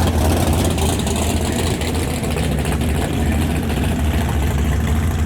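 Muscle car engine idling steadily with a low rumble.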